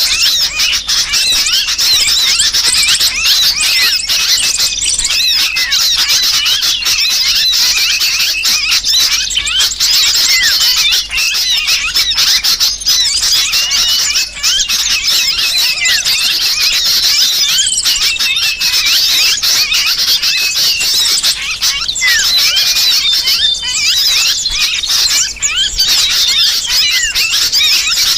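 Bird-lure recording: a dense, unbroken chorus of small birds chirping and squeaking, mixed with a sooty-headed bulbul's distress calls as if the bird were caught. Many high, short calls and slurs overlap without a pause.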